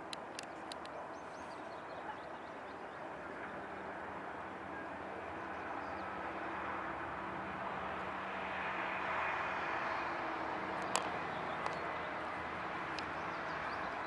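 Škoda 27E electric mining locomotive and its train running by: a steady rumble with a low hum that grows louder toward the middle, with a few light clicks and one sharp click about eleven seconds in.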